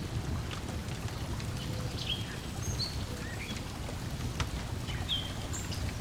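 Layered lakeside ambience: water lapping as a steady low wash, a fire crackling with scattered sharp pops, and short bird chirps a couple of seconds in and again near the end.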